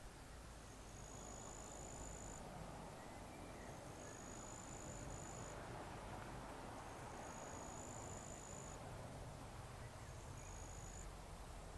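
Insect trilling in high, even phrases about two seconds long, four of them with short gaps between, over a faint steady hiss of outdoor background.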